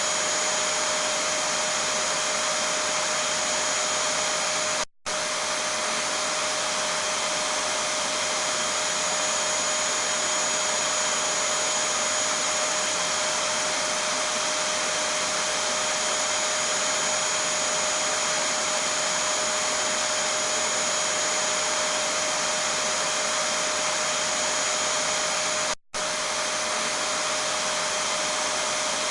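Vacuum cleaner running steadily, a constant rush of air with a steady whine, broken twice by a split-second dropout: about five seconds in and about three seconds before the end.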